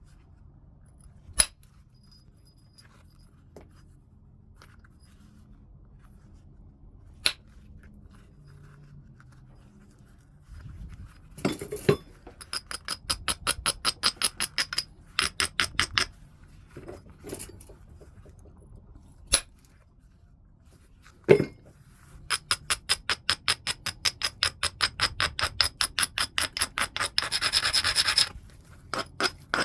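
Flintknapping on heat-treated Burlington chert: a few sharp single clicks as flakes are struck off, and two long runs of quick rhythmic scraping strokes, about four or five a second, along the stone's edge.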